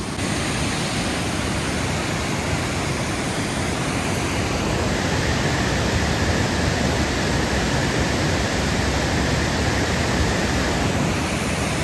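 Alsea Falls at high winter flow, a steady heavy rush of falling water; the water is raging, the falls running far fuller than their calm summer state.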